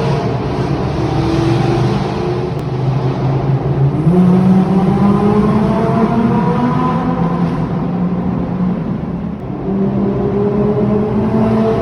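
Supercar engine and exhaust under hard acceleration in a tunnel, its pitch climbing in steps as it runs up through the gears, with a brief drop in loudness about nine and a half seconds in before it pulls again.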